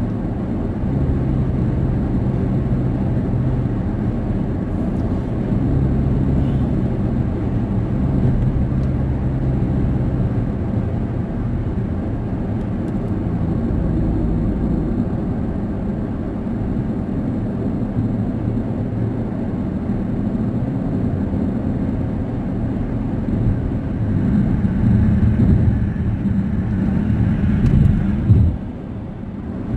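Steady road and engine noise heard from inside a car cruising at highway speed: a low tyre rumble with a constant engine hum, dipping briefly near the end.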